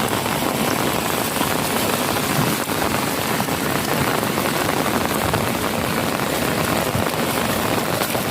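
Heavy rain falling steadily on surfaces and into pooled water, a dense even hiss of many drops.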